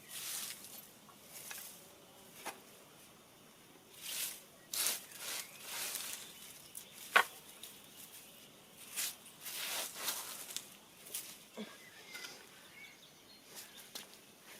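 Irregular rustling and scraping noises in short bursts, with one sharp click about seven seconds in.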